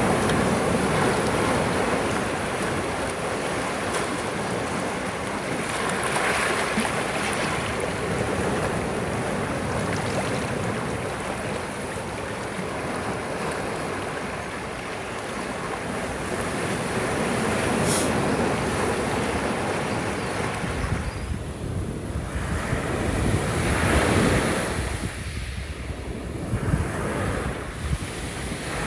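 Gentle sea waves washing onto a shore, the surf swelling and falling back in slow surges, with one brief click about two-thirds of the way through.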